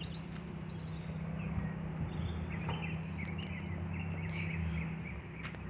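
Small birds chirping in short bursts over a steady low hum of outdoor background noise.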